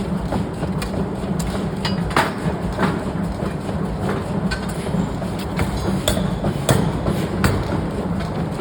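Heavy forging machinery running with a steady low hum, broken by irregular sharp metal clanks and knocks, several louder ones spread through.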